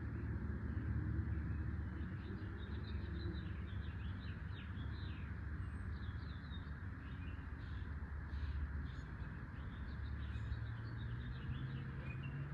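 Small birds chirping over and over. Underneath runs a steady hiss with a low rumble.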